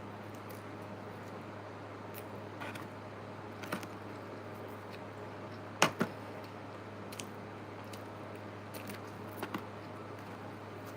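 Sparse clicks and taps of eating and handling food, the loudest two close together about six seconds in, over a steady low hum.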